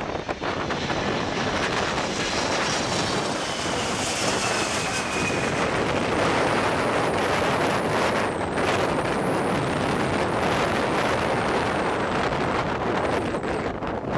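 Jet engines of a landing Boeing 767-300ER airliner, a loud steady rushing noise with a whine that falls in pitch a few seconds in and a thin high whine through the middle.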